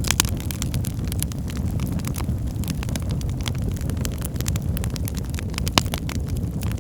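Wood fire burning in a fireplace: a steady low rumble of flames with frequent sharp crackles and pops of burning wood, the loudest pops just after the start and about six seconds in.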